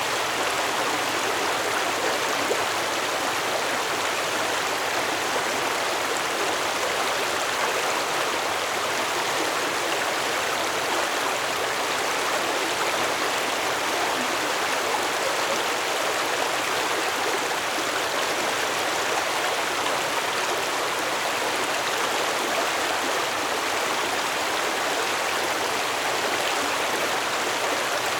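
Stream water flowing steadily, a continuous even rush and babble without breaks.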